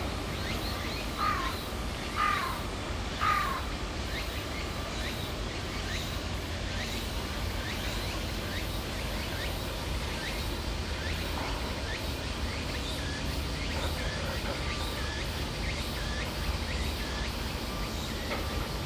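A bird gives three harsh falling calls about a second apart, over a steady low outdoor rumble, with faint short chirps later.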